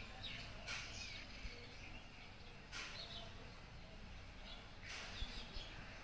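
Small birds chirping: three short, sharp calls about two seconds apart, each with quicker twittering notes around it, over a low steady background rumble.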